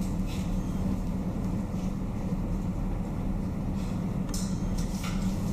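A steady low mechanical hum. Over it are a few brief splashy strokes, the clearest two about four and five seconds in, from a small dog playing in its water bowl.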